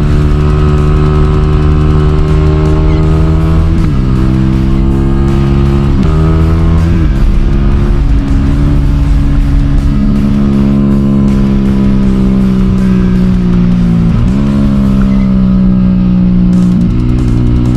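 A Motorstar Z200 sport motorcycle's engine heard from the rider's seat, running under way on the road. Its pitch dips sharply several times and then climbs again, as at gear changes or when the throttle is closed and reopened.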